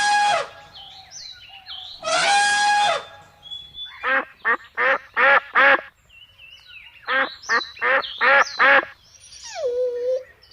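Waterfowl calling: two long, harsh honks, then two quick runs of five or six short honking calls, and a falling call near the end. Faint high bird chirps sound in the background.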